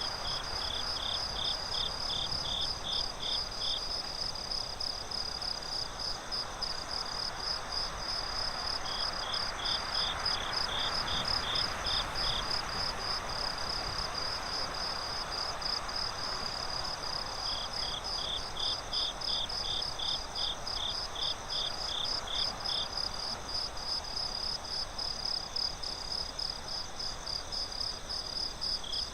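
Crickets chirping at night: one steady, fast-pulsing high trill throughout, joined three times by a second, slightly lower trill in runs of a few seconds, over a soft steady hiss.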